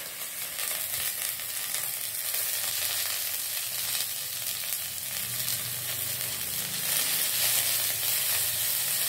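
Coriander leaves, roasted gram dal and onion sizzling in oil in a nonstick pan, wilting over the heat. The pan is stirred with a wooden spatula near the end.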